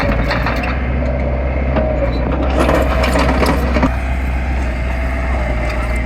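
Heavy diesel earthmoving machinery running steadily, with scattered clanks and knocks through the first few seconds.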